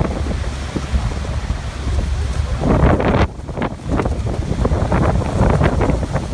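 Waterfall rushing, with wind buffeting the microphone in irregular gusts and a brief lull about three seconds in.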